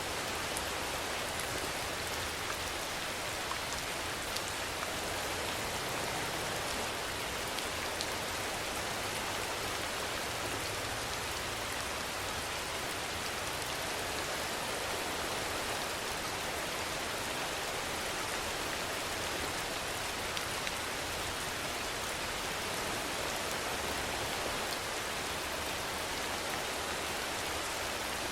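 Steady rainfall with scattered individual drops ticking.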